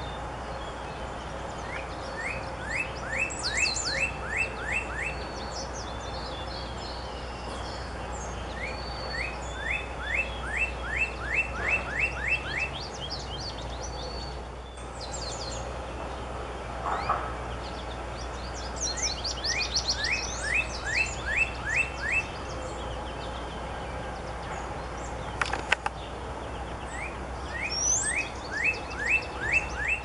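Songbirds singing in the morning: one bird repeats a phrase of about eight quick down-slurred whistles four times, every seven seconds or so, while other birds chirp higher. A steady low hum runs underneath.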